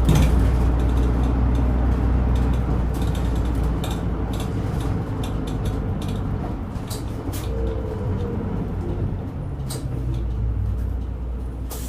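Inside a Japanese route bus while it drives: the diesel engine drones low and steady with small rattles and clicks from the cabin. The engine note eases off about four seconds in and picks up again near the end.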